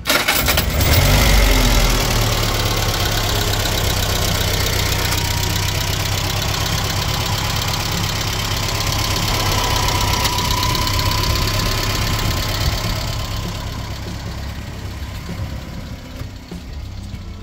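1967 Citroën DS21's four-cylinder engine starting up, loudest as it catches in the first couple of seconds, then running at a steady idle that grows a little quieter near the end.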